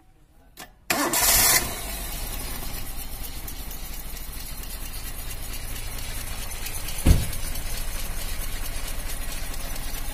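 Carburetted Suzuki Cultus three-cylinder engine starting at once about a second in, then idling steadily, with a single thump about seven seconds in.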